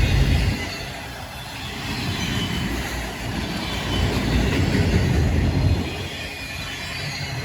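Freight train rolling past, a steady rumble of wheels and cars on the rails that swells and eases as the cars go by.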